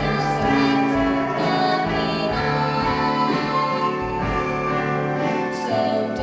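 A song from a stage musical sung by a vocal trio, the voices holding long notes over instrumental accompaniment.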